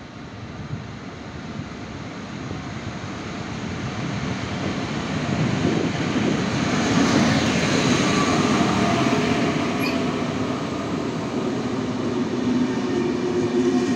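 EP07 electric locomotive hauling a passenger train comes in along the platform and passes, its running noise growing to its loudest as the locomotive goes by about six to eight seconds in. The coaches' wheels then rumble past, with a few steady tones over them.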